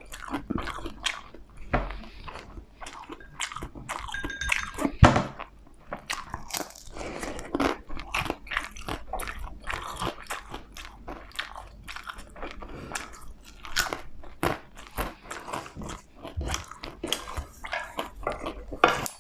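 Close-up eating sounds: a person biting and chewing food with many irregular crunches and wet mouth clicks, one louder crunch about five seconds in.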